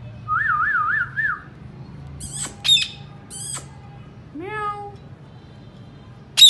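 Indian ringneck parrot calling: a warbling whistle that wavers four times, then sharp high squawks, a meow-like call about four and a half seconds in, and loud squawks at the end.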